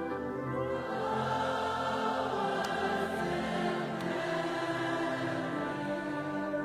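Slow worship music with choir-like voices singing long held notes.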